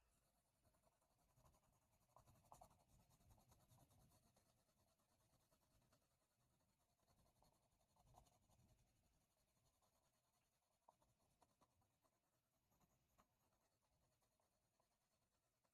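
Near silence, with faint scratching of a drawing tool in a few short spells and a couple of tiny ticks.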